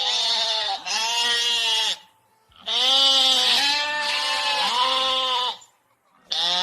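Recorded animal calls: about six cries of roughly a second each, in three groups, each rising and falling in pitch.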